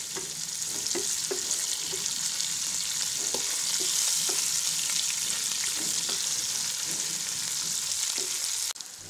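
Sliced onions and potato chunks sizzling in hot oil in a non-stick pan, stirred with a wooden spatula that scrapes and taps against the pan. The sizzle cuts off abruptly near the end.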